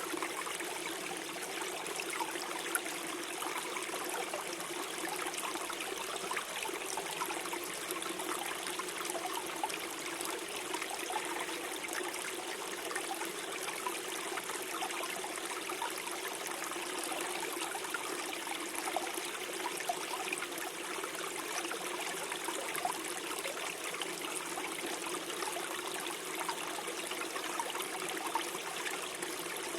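Small forest stream flowing and gurgling over stones, a steady babble of running water.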